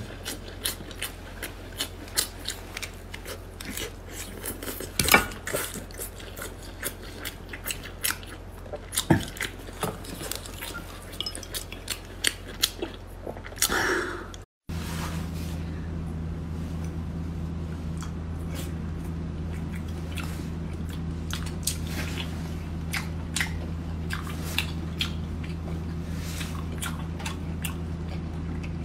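Close-miked eating: wet chewing and biting with many sharp mouth clicks and smacks. About halfway through, the sound cuts out for a moment and a steady low hum comes in under fainter, sparser chewing sounds.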